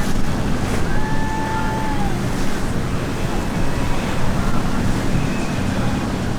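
Wind buffeting the microphone over rushing water and the rumble of boat engines, with a brief steady high tone about a second in.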